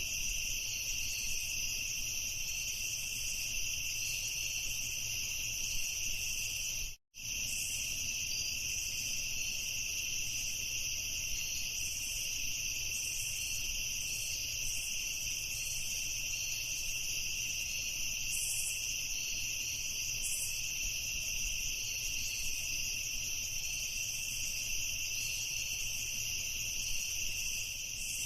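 A dense chorus of crickets trilling continuously, a steady high-pitched drone. The sound cuts out completely for a split second about seven seconds in.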